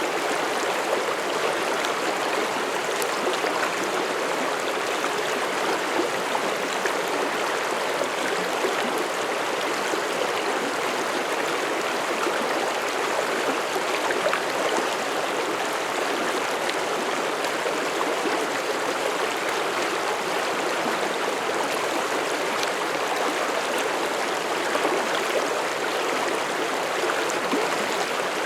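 Mountain stream rushing and gurgling over rocks, a steady, unbroken water sound.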